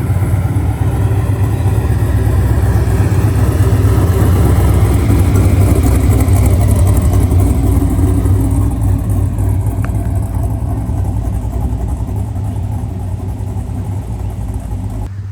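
Truck engine running with a deep, loud rumble that slowly fades over the second half.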